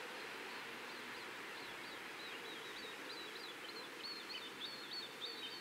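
A small bird chirping in a fast, repeated series of short high notes that grows louder about four seconds in, over a steady faint hiss of outdoor ambience.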